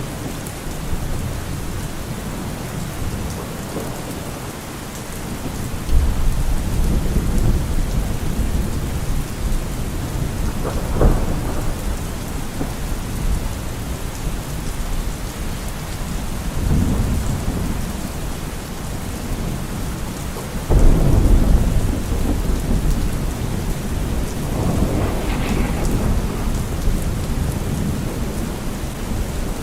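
Steady heavy rain with rolling thunder: several low rumbles of thunder swell in over the rain, with a sharper crack about 11 seconds in and the loudest rumble about two-thirds of the way through.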